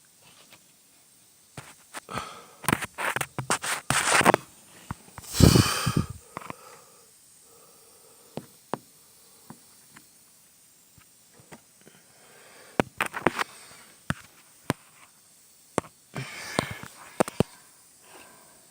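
Scattered clicks and rustling with short noisy bursts, the loudest about five and a half seconds in: handling noise as a hand-held phone is moved around a truck's engine bay, with the engine not running.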